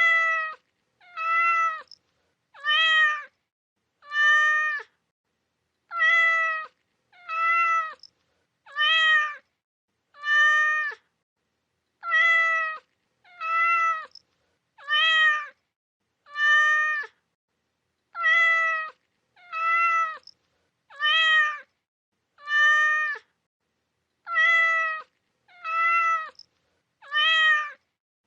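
Cat meowing over and over in sets of four, each meow under a second, with a short pause between sets. The meows look identical and are separated by dead silence, as if one recorded meow is being repeated.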